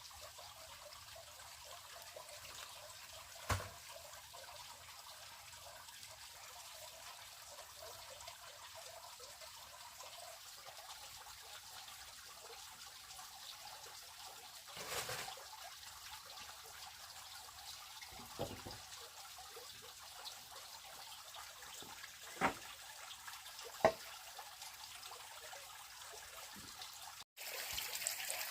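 Faint steady trickling water, with a few short sharp knocks scattered through it. Near the end the sound cuts out for a moment and comes back louder.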